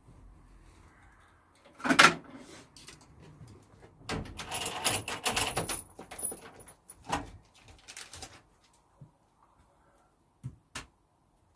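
Objects being handled: a loud knock about two seconds in, then a couple of seconds of clattering and rattling, followed by a few scattered clicks.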